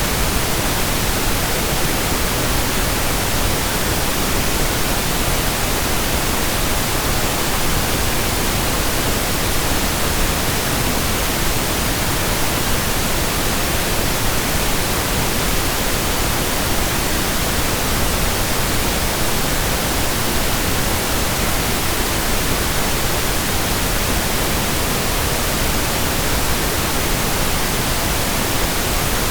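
Steady pink noise: an even, unchanging hiss spread across all pitches, softer at the top than white noise.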